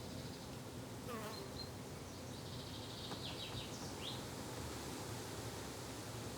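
A flying insect buzzing in a low, steady drone that fades and returns. A few short, high bird chirps come in the middle.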